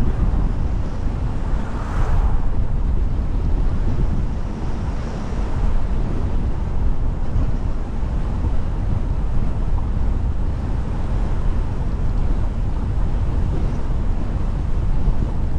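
Steady rumble of wind on the microphone and road noise from a car being driven, with a brief swell about two seconds in.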